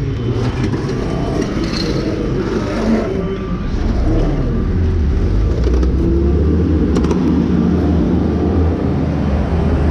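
A motor vehicle's engine running, with a steady low rumble that grows louder about four seconds in as the vehicle is moved.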